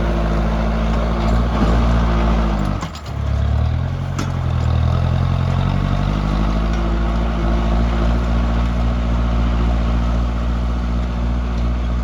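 Tractor engine running steadily. About three seconds in, its pitch and level dip briefly, then climb back up as the engine picks up again.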